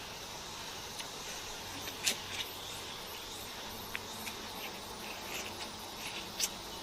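Eating sounds: a few short sharp clicks and crunches, the loudest about two seconds in and another near the end, over a steady faint hiss.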